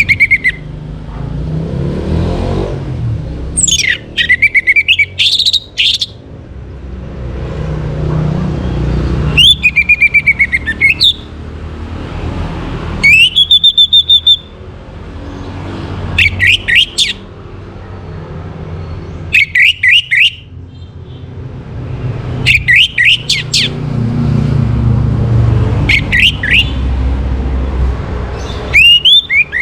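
Orange-headed thrush singing loud, short phrases of rapid whistled notes, repeated about every three seconds, with a low rumble underneath.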